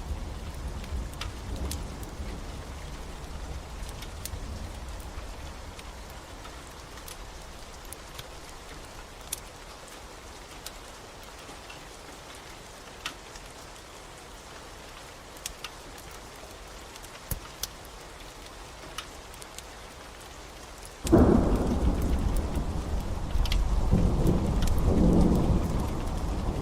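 Steady rain with occasional sharp crackles and pops from a wood fire. About 21 seconds in, a loud roll of thunder breaks in suddenly and keeps rumbling to the end.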